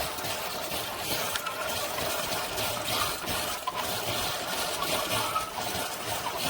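Amazon Basics single-serve coffee maker brewing a K-Cup: its pump pushing hot water through the pod and a steady stream of liquid pouring into the cup.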